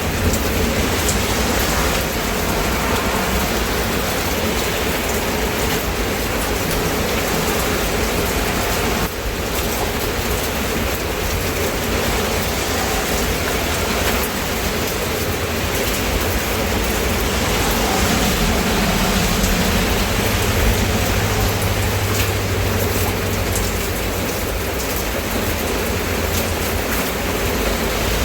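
Steady rain falling and pattering on surfaces, a dense, even hiss.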